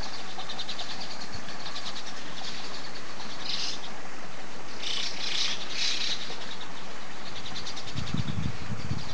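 Many small birds chirping and twittering in rapid trills, with several louder bursts of calls through the middle, over a steady background hiss. Low thumps come in near the end.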